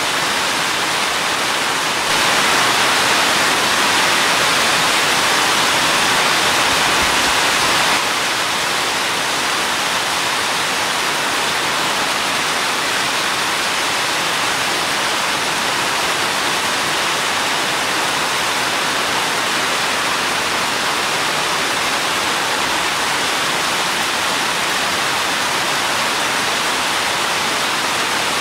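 Steady rain falling, a dense even hiss with no separate drops standing out. It turns louder for about six seconds shortly after the start, then settles back to its earlier level.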